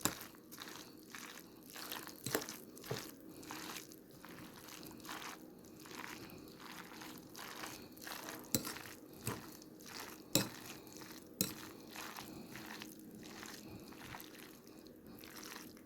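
Cold spaghetti salad with chicken and vegetables being stirred in a bowl: irregular wet crunching and rustling as the noodles and vegetables turn over, with a few sharp clicks of the stirring utensil against the bowl about halfway through.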